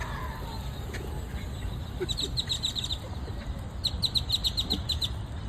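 A large flock of birds calling, with two runs of rapid, sharp chirps, the first about two seconds in and a longer one about four seconds in, over a steady low rumble.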